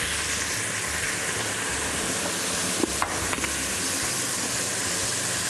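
Chicken pieces with onion, carrot and whole spices sizzling in a hot pot, a steady hiss as the chicken is seared to seal it before boiling. A few light clicks about three seconds in.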